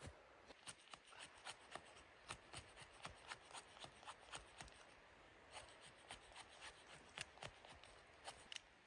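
Faint, irregular sharp clicks and crackles, about three a second, with a brief pause about halfway through.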